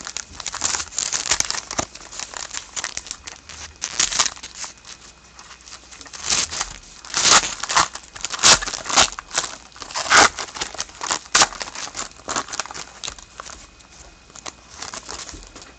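Wrapper of a hockey trading card pack crinkling and tearing as it is opened and handled, in irregular bursts that are loudest in the middle stretch.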